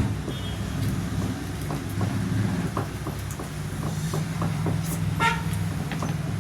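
A steady low droning hum in the background, with scattered small clicks of chewing and lip smacking.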